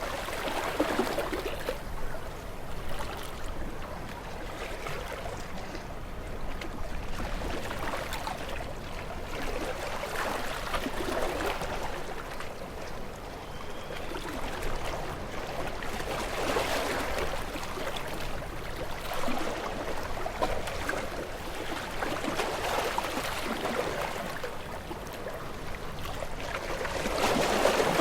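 Gentle water waves lapping, the sound of moving water swelling and easing every few seconds, strongest near the end.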